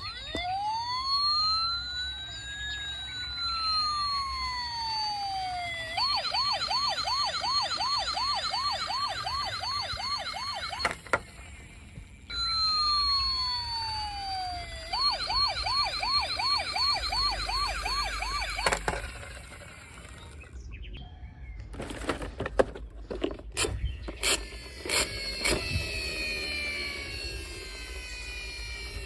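Electronic siren of a toy emergency vehicle: a wail that rises and then falls, followed by a fast warbling yelp for about five seconds, with the pattern repeated. In the last third the siren gives way to clicks and knocks and several falling electronic tones.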